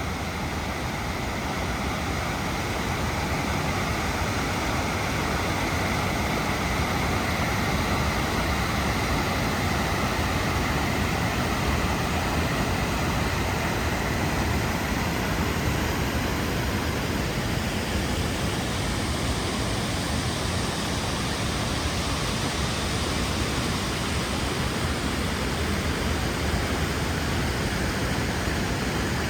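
Water rushing over the Spicket River falls: a steady, even roar of falling water that holds at one level throughout.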